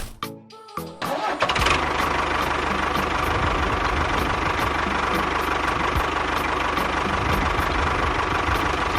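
A small motor starts suddenly about a second in and then runs steadily, with a low rumble and a constant whine.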